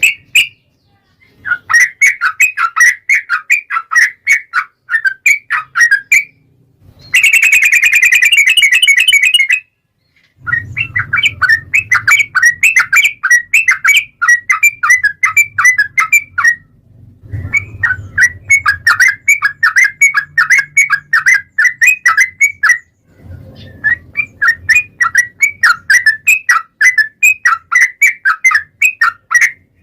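Yellow-vented bulbul (trucukan) song: long runs of rapid, repeated chirping notes in phrases of about five seconds with short breaks between them. About seven seconds in comes a harsh, buzzy trill lasting a couple of seconds.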